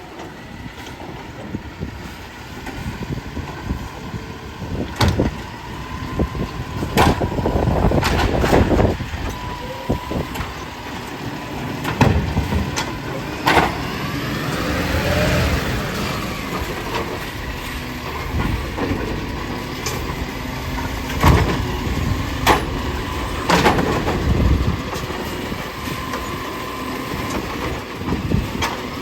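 Garbage truck running, with many sharp clanks and knocks throughout and a whine that rises and falls about halfway through.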